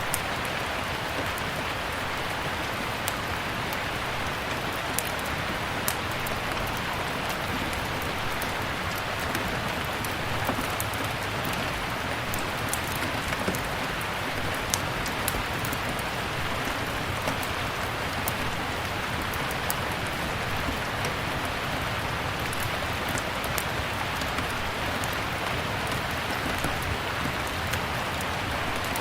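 Steady rain mixed with a crackling wood fire: an even rain hiss with scattered sharp pops and snaps throughout.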